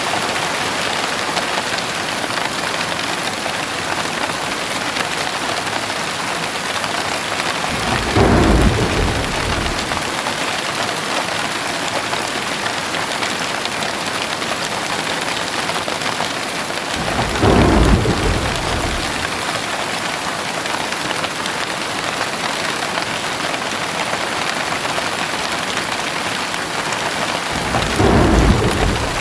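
Heavy rain pouring steadily, with three short low rumbles of thunder about ten seconds apart: one about eight seconds in, one near the middle and one near the end.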